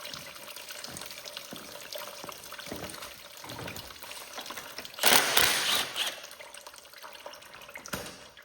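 Antifreeze trickling steadily from the tractor's drained cooling system into a drain pan, with small metallic clicks of tools. About five seconds in, a loud noisy rush lasts about a second.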